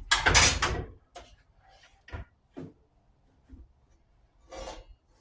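Handling noise on a miter saw: a rough scrape in the first second, then a few light clicks and knocks, and another short scrape near the end, as the saw's squareness is checked by hand.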